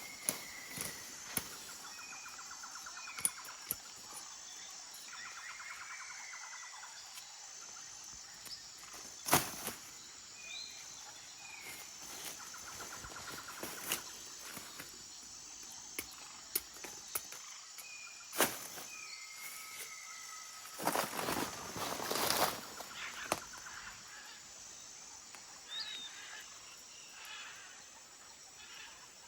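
Forest ambience: a steady high insect drone with birds calling in short chirps, sweeping whistles and brief trills. Sharp knocks come about nine and eighteen seconds in, and a couple of seconds of rustling crunches a little past twenty seconds.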